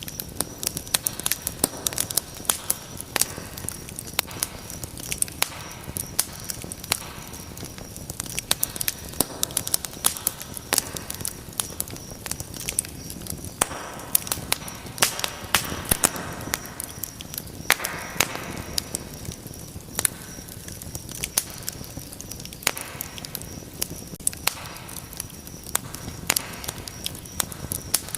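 Wood fire in a fireplace crackling steadily, with frequent sharp pops and snaps at irregular intervals over a soft hiss of burning.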